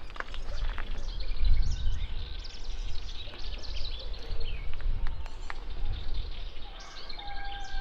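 Small birds chirping and twittering over a low outdoor rumble, with a few light clicks and a held tone near the end.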